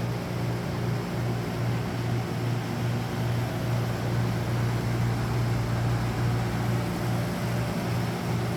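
A motor running with a steady low hum over a noisy whir.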